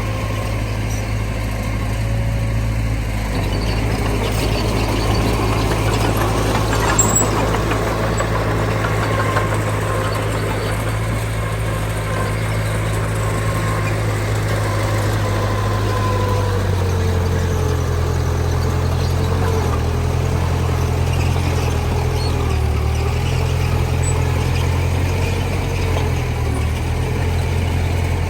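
Heavy diesel earthmoving machinery running steadily. The engine note shifts about halfway through, and a faint whine wavers up and down over the second half.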